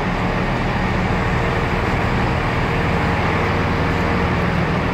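Steady low mechanical drone of a train idling in the station, with an even hum under a wash of noise.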